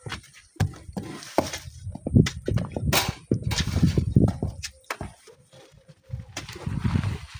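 Wind buffeting the microphone in gusts, with a low irregular rumble that comes and goes, and scattered sharp knocks and scrapes, the loudest about three seconds in.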